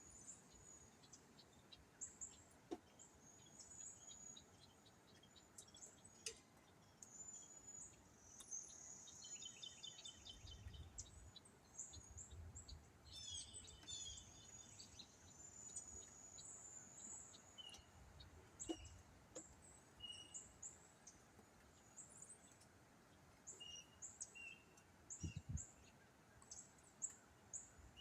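Birds chirping and trilling, many short high calls with a quick rattling trill partway through, over faint wind rumbling on the microphone.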